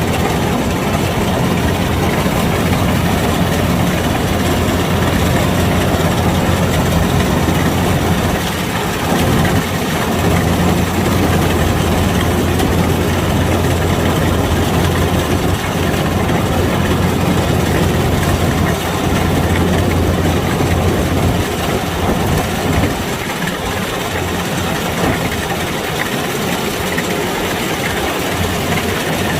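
Kubota DC-105X combine harvester's diesel engine running steadily, with a deep steady hum that weakens somewhat after about twenty seconds.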